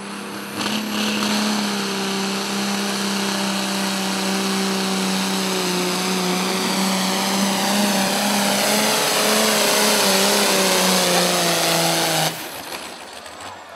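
Engine of a tractor-pull competitor running flat out under load as it drags the sled, a loud, steady, high-revving note that stops abruptly near the end.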